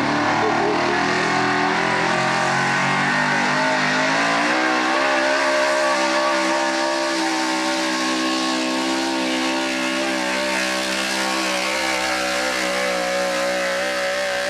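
A modified 4x4 truck's engine at full throttle. It climbs in pitch over the first five seconds, then holds steady at high revs.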